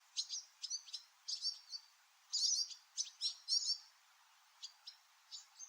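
Barn swallow twittering: short, high chirps in quick clusters with brief gaps between, over a faint hiss.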